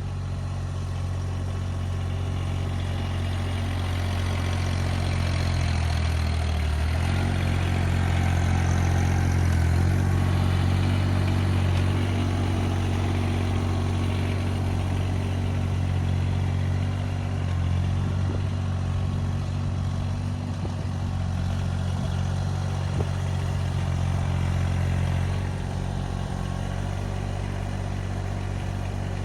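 An engine running steadily, its note changing about seven seconds in.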